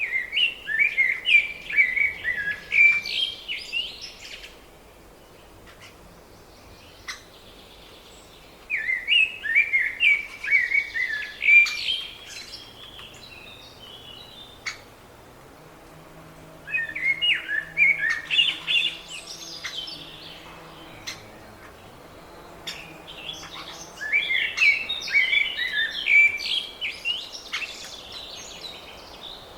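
A songbird singing the same phrase four times: each is a quick series of repeated notes lasting about three to four seconds, with pauses of several seconds between phrases.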